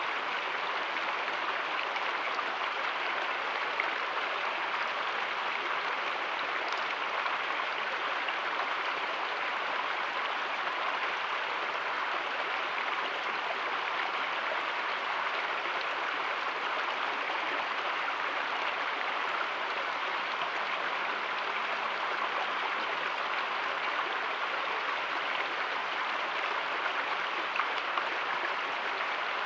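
Steady rush of flowing creek water, an even, unbroken noise.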